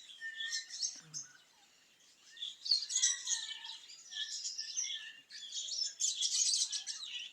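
A flock of budgies and lovebirds chirping and chattering together, many overlapping high chirps. It falls nearly quiet about a second and a half in, then picks up again into a busy chorus.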